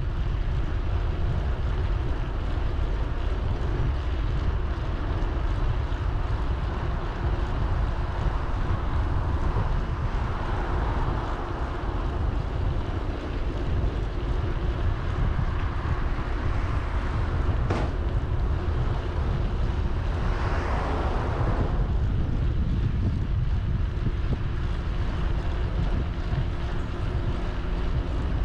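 Steady low wind rumble buffeting the microphone of a camera on a moving bicycle. Two swells of hiss come about a third of the way in and about three-quarters through, with a single sharp click in between.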